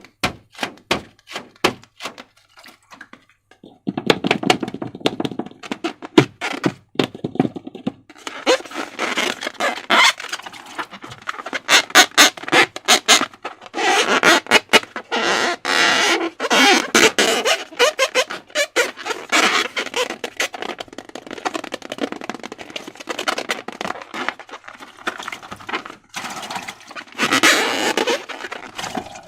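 Slime being worked by hand: a few separate sharp taps at first, then a dense run of wet, sticky clicks and crackles as it is squished and mixed.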